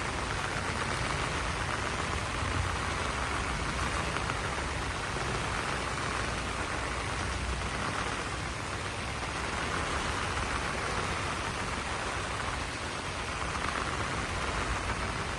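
Steady rain falling on broad banana leaves, an even, continuous patter, with a low rumble underneath.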